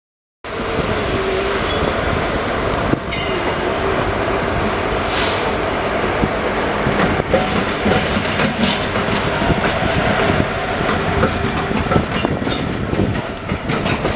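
Express train running along the track, heard from on board. The steady rumble of the coaches is broken by frequent wheel clicks over rail joints and brief wheel squeals. The sound cuts in suddenly about half a second in.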